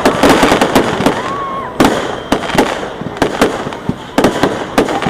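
Fireworks display going off: a rapid, irregular run of sharp bangs and crackles from bursting shells, many overlapping.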